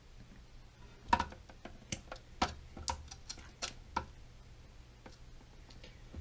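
A run of sharp, irregular clicks and light knocks, about eight in three seconds, from handling the plastic parts of a toilet's new supply hose and fill-valve fittings, then only a faint hum.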